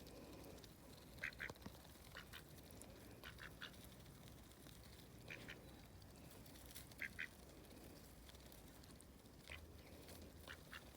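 Mallard ducks quacking softly: short, faint calls, many in quick pairs, every second or two.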